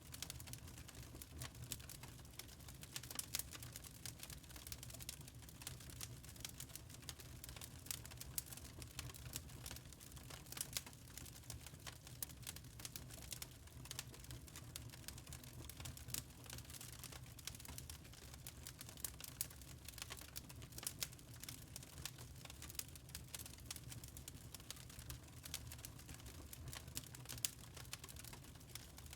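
Wood fire crackling in a fireplace: many small irregular snaps and pops over a low steady rumble.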